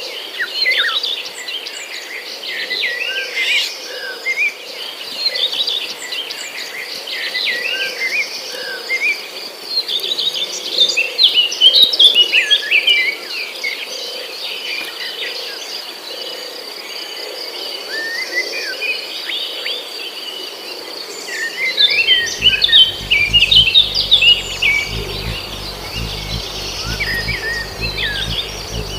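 Many small birds chirping and twittering in quick overlapping bursts over a steady high insect drone. A low rumble joins about two-thirds of the way through.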